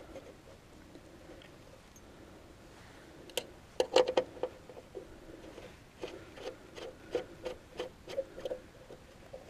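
Hand-worked 3-way turnout on a 7-1/2 inch gauge track being relined: a few sharp metal knocks about three and a half seconds in, then a run of lighter clicks and taps, roughly two a second, as the rails and locking knob are worked by hand.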